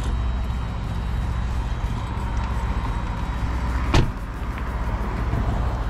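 A car on the move: a steady low rumble of road and tyre noise, with one sharp knock about four seconds in.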